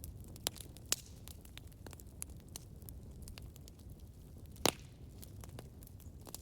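Campfire burning: a low rumble under scattered wood crackles and small pops, with one sharp louder pop near the end.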